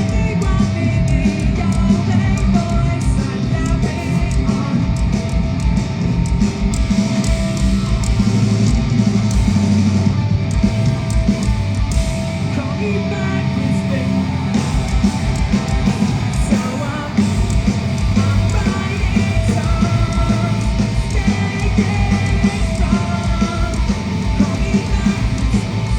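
Live punk rock band playing at full volume through a festival PA: distorted electric guitars, bass and fast kick drum, with shouted vocals. The kick drum drops out briefly about halfway through, then comes back.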